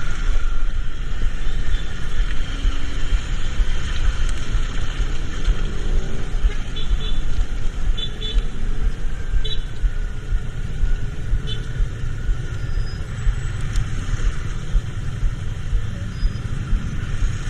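Road traffic noise heard while riding, with a steady low wind rumble on the microphone. A few short, faint high beeps come in the middle.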